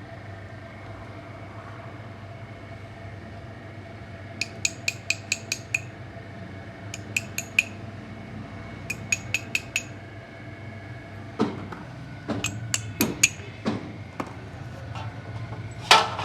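Metal hand tools at work on engine parts: three quick runs of sharp, evenly spaced clicks, then several louder metal clinks and knocks, the loudest near the end, over a steady low hum.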